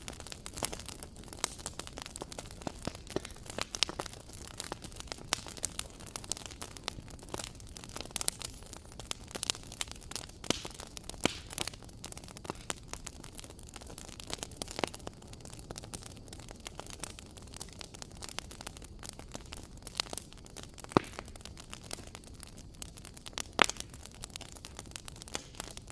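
Wood fire crackling in a fireplace: irregular pops and snaps over a steady low hiss, with a few louder snaps in the second half.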